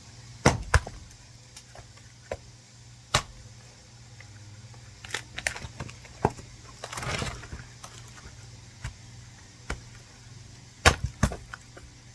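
Hatchet chopping and splitting firewood: sharp knocks of the blade into the wood every second or two, some in quick pairs, with a rough crackle of wood splitting apart about seven seconds in.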